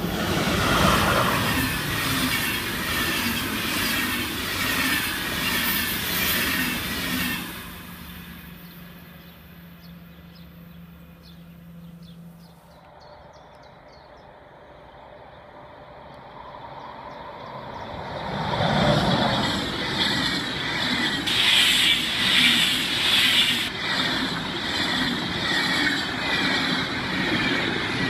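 An electric locomotive hauling passenger coaches passes at speed with rolling, clattering wheel noise, which fades out after about seven seconds. From about halfway a steady high warning tone from a level crossing sounds. From about two-thirds in, a second passenger train, made up of SBB coaches, rolls past the crossing with loud clattering wheels.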